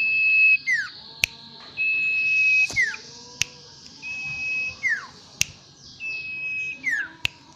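Common iora (cipoh) singing: a held high whistle followed by a quick falling note, repeated about every two seconds, four times, with sharp clicks between the phrases.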